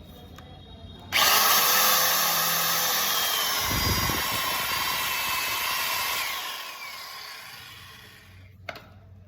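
Electric woodworking power tool switched on suddenly about a second in, running loud and steady for about five seconds, then winding down. A single sharp click near the end.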